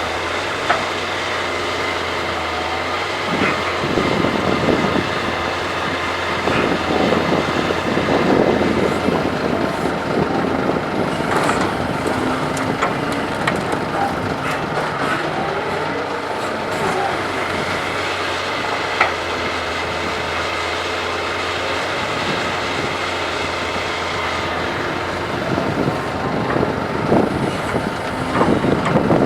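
Doosan DK225LCA hydraulic excavator's diesel engine running under load as it digs and loads soil. It swells into louder, rougher stretches several times, and its pitch slides up and down now and then. Two brief metallic clanks stand out, one about a second in and one near the middle.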